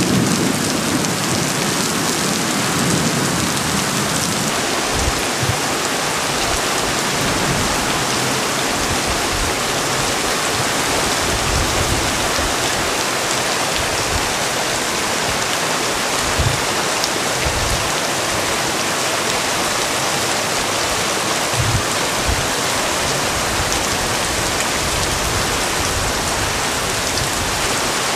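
Heavy rain falling steadily, a constant dense hiss of rain on surfaces. A low rumble dies away in the first few seconds, and short low thumps of wind gusts on the microphone come now and then.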